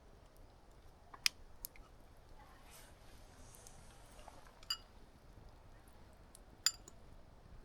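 A few sharp, isolated clicks over a faint steady hiss, two of them near the middle and end with a brief metallic ring.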